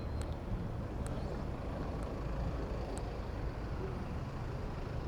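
Steady rumble of road traffic mixed with wind on the microphone of a moving bicycle, with a few light clicks about a second apart.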